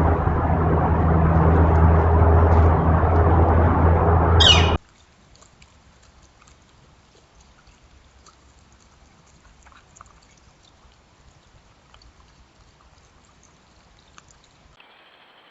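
Trail-camera audio: a loud, steady rushing noise like running water, over a low hum, cuts off abruptly about five seconds in. After that there is only faint outdoor background with a few small ticks.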